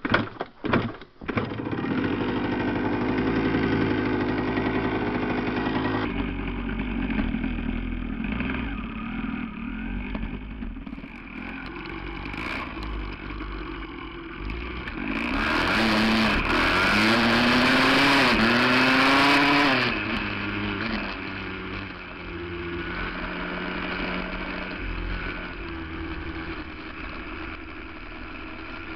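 Yamaha 175 two-stroke dirt bike engine firing up about a second in and settling into a steady idle. It is revved up and down several times in the middle, then drops back to idle.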